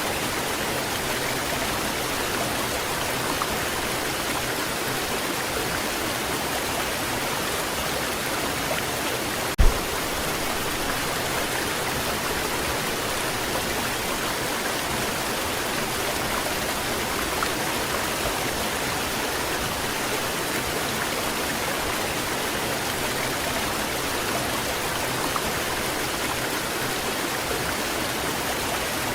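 Waterfall rushing steadily, an even wash of falling water without let-up. A single brief low thump breaks in about a third of the way through.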